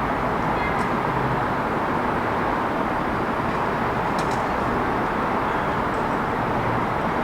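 Steady city traffic noise, a continuous even rush of passing vehicles, with a couple of faint short high ticks about a second in and again around four seconds.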